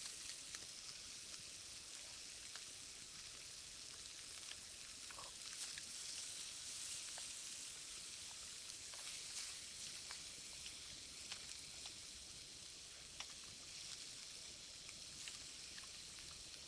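Garlic and pork sizzling in a frying pan over a small wood fire: a faint, steady hiss with scattered sharp clicks and crackles.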